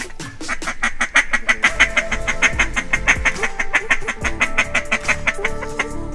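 A fast, unbroken run of mallard-style quacks, about five or six a second, over background music with held notes.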